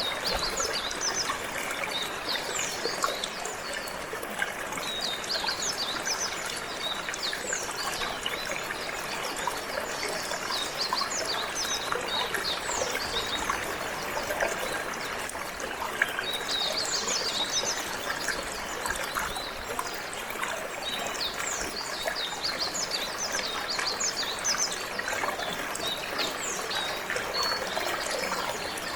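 Water flowing and trickling steadily, with a canary singing over it: spells of rapid, high, quick-falling notes that come and go with short pauses between them.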